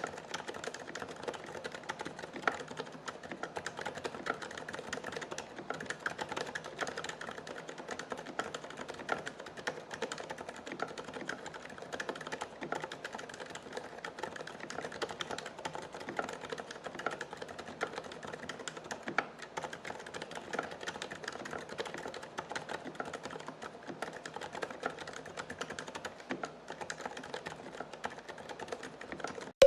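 Computer keyboard being typed on quickly and continuously: a dense, unbroken stream of keystroke clacks.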